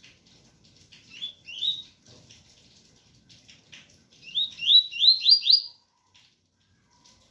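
Double-collared seedeater (coleiro) singing its 'tui tui' song: two rising whistled notes about a second in, then a quick run of five rising notes around four to five seconds in. Rain patters steadily underneath.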